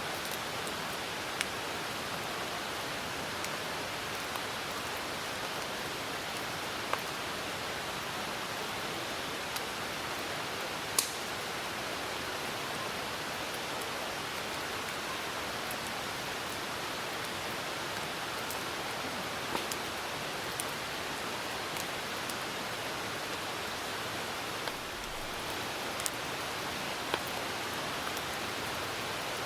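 Steady hiss of rain with a campfire burning, its wood giving scattered sharp pops, the loudest about eleven seconds in.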